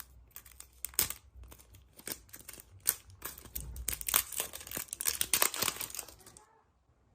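A surprise egg's wrapper being crinkled and torn open by hand: a run of irregular sharp crackles that grows denser toward the middle and stops about six and a half seconds in.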